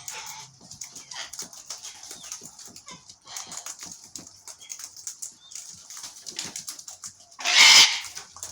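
Wild birds at scattered seed: many small ticks and a high twittering throughout, then a loud rush of noise lasting about half a second near the end.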